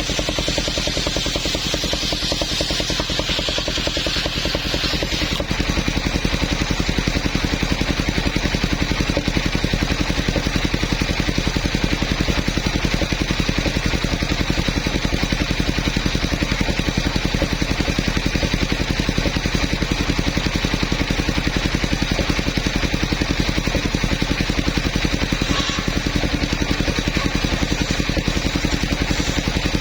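Engine of a portable sawmill running steadily with a fast, even pulse. A higher hiss that sits over it drops away about five seconds in.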